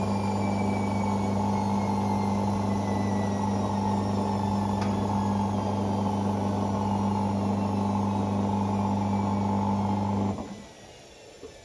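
Hoover Six Sportswear 1300 washing machine near the end of its Speed Wash cycle: a steady hum with faint whines slowly falling in pitch as the drum winds down. The hum cuts off suddenly about ten seconds in.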